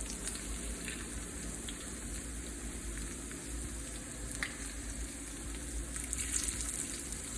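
Battered corn dogs deep-frying in hot oil: a steady sizzle with scattered faint crackles and one sharper pop a little past the middle.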